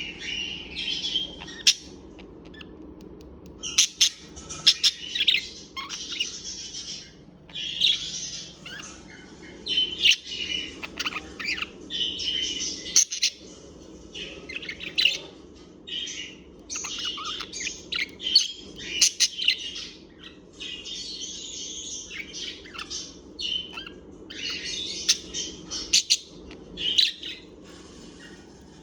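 Birds chirping and twittering in repeated bursts of a second or two, with short pauses between, over a faint steady low hum.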